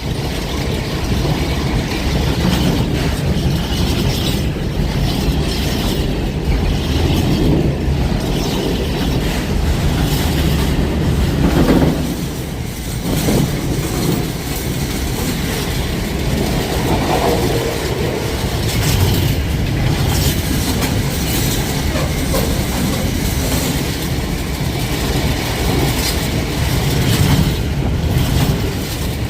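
A train running past at close range, its wagons' wheels knocking over the rail joints in a continuous clatter for the whole stretch, with a brief lull about twelve seconds in.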